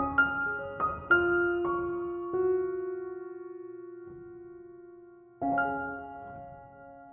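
Background piano music: a few notes played in quick succession, then a long note left to fade, and a soft chord struck near the end that dies away.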